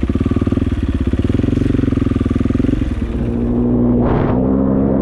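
KTM dirt bike engine running with a fast, even pulse. About three seconds in, the sound changes to a steadier, smoother drone, with a brief rushing noise about a second later.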